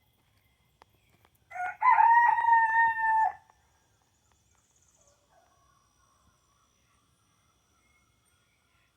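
A rooster crowing once: a short rising first note, then a long held call lasting about two seconds. Faint bird calls follow.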